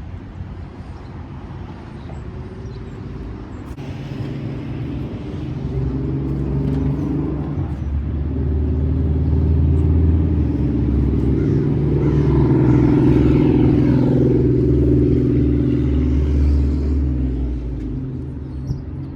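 Vehicle engine running with a low, steady hum that grows louder, shifts in pitch a couple of times through the middle, and eases off near the end.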